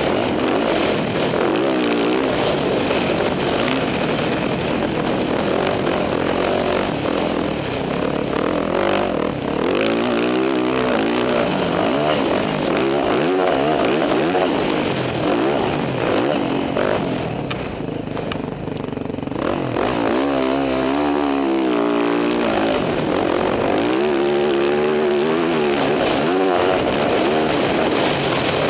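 Dirt bike engine being ridden hard, revving up and down again and again as the rider works the throttle and gears, with a short let-off of the throttle about two-thirds of the way through.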